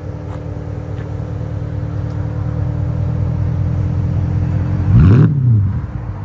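Straight-piped 5.5-litre V8 of a 2008 Mercedes S550 idling with a deep, steady exhaust note that grows gradually louder, then one quick throttle blip about five seconds in that rises and falls in pitch. The mufflers and rear resonators have been cut out, leaving an X-pipe and resonated tips.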